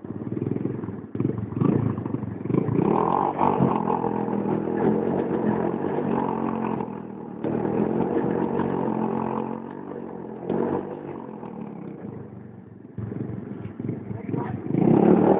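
Pit bike's small single-cylinder engine revving hard, its pitch and level rising and falling repeatedly, with short dips about seven seconds in and again near the end.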